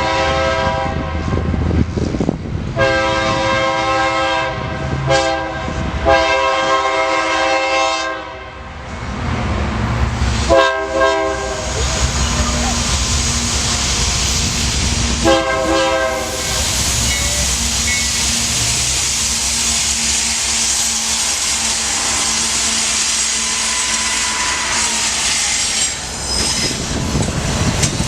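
Locomotive horn on a Union Pacific intermodal train blowing a multi-note chord in repeated blasts: one ending about a second in, then long, long, short, long, the grade-crossing signal. The train then passes close by with a steady rush of rolling cars and wheels clacking over the rail joints.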